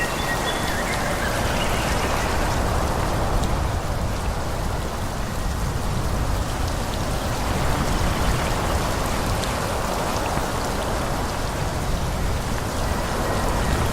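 Wind through forest trees: a steady rustling hiss of leaves that swells and eases in slow gusts, with a low rumble underneath.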